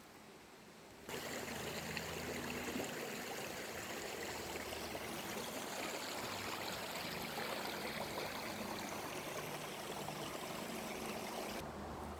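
River water flowing, a steady rushing noise that starts about a second in and cuts off shortly before the end.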